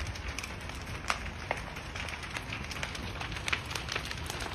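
Burning barn and hay crackling: irregular sharp pops over a steady hiss.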